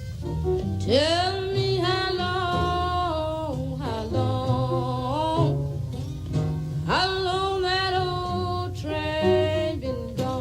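A woman singing a slow blues with a backing band of acoustic guitar, piano, upright bass and drums. She sings two long phrases, each opening with an upward scoop in pitch: the first about a second in, the second about seven seconds in.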